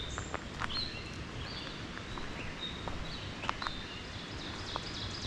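Several songbirds singing at once in woodland, with many short, high notes and trills overlapping. A few sharp clicks fall among them.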